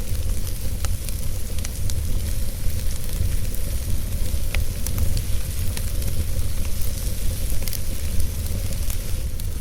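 Wood fire burning in a fireplace: a steady low rumble and hiss, with a few sharp crackles and pops scattered through.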